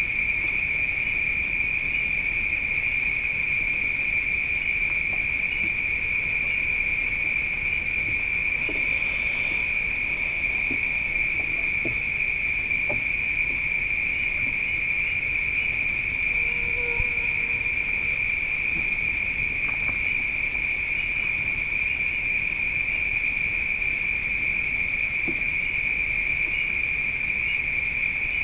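Night insect chorus of crickets: a steady, shrill trill at two high pitches that goes on without a break. A few faint ticks are heard midway.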